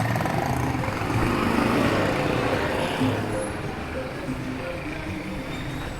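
Town street traffic: a motor vehicle passes, loudest about two seconds in and fading after, over music and voices in the background.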